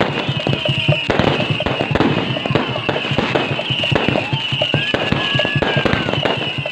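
Fireworks going off in a rapid, dense barrage of sharp bangs and crackles. Whistling fireworks glide up and down in pitch over the blasts.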